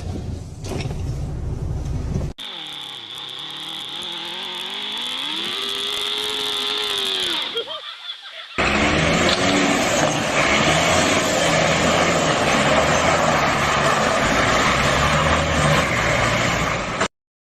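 Vehicle engine and road noise in a few abrupt cuts. A low rumble comes first, then an engine whose pitch drops and climbs again, then loud, steady driving noise that cuts off suddenly near the end.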